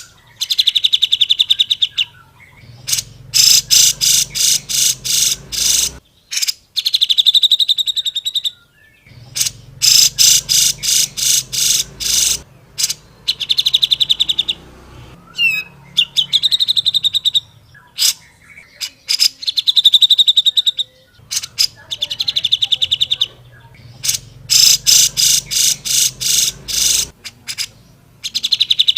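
Cucak jenggot (grey-cheeked bulbul) singing loud, fast trills of rapidly repeated high notes in bursts of one to three seconds, with short pauses between them throughout.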